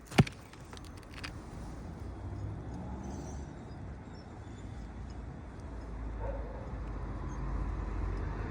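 A single sharp knock or tap just after the start, then a steady low rumble that grows slightly louder toward the end.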